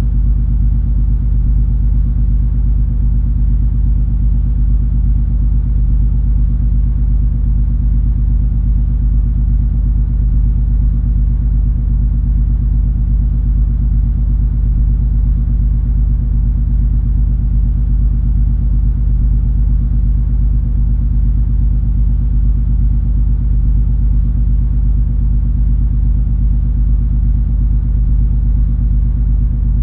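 Cruise ferry MS Color Fantasy under way, heard on board as a steady, unchanging low engine rumble and hum.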